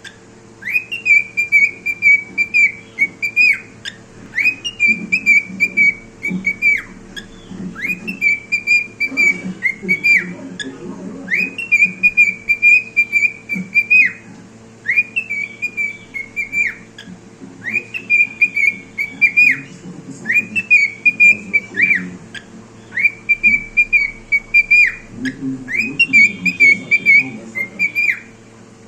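Cockatiel whistling the same short tune over and over, about once every two seconds. Each phrase is a high, level whistle that swoops up at the start and drops sharply at the end.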